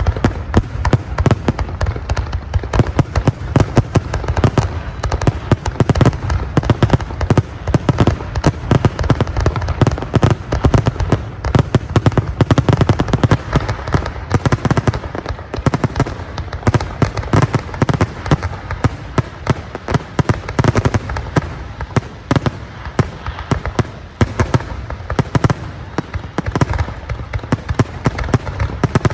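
Fireworks display: a continuous barrage of aerial shells bursting, many bangs and crackles a second with deep booms underneath and no break.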